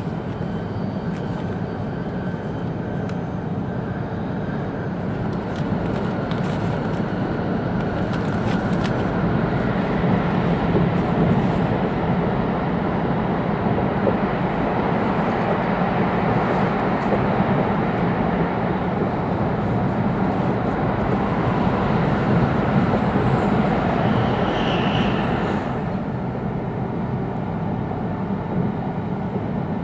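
Interior running noise of an E2-series Shinkansen train: a steady rumble with a low hum that grows louder partway in and eases off again about 26 seconds in.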